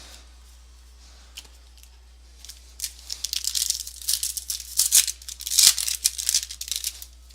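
Crinkling and tearing of a trading-card pack's foil wrapper as it is ripped open, a dense run of crackles starting about three seconds in.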